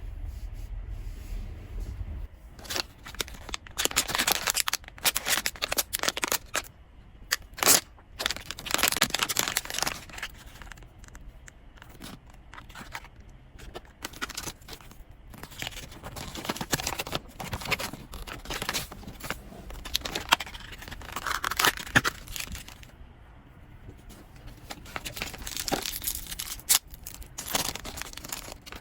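Blind-box packaging being torn open and crinkled by hand in irregular bursts, with sharp clicks and handling noise.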